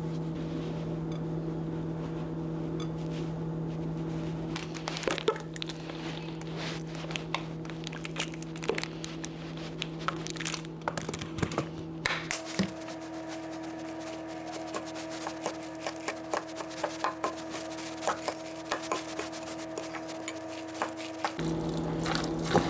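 Kitchen utensils clicking and knocking irregularly as food is prepared, several small hits a second from about five seconds in, over a steady low hum that changes abruptly twice.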